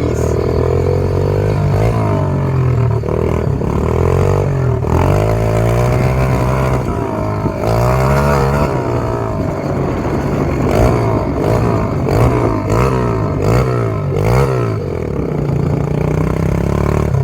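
SSR 125 dirt bike's four-stroke single-cylinder engine running loud with the exhaust off, revving up and falling back over and over as it is ridden, the rises coming quicker from about ten seconds in.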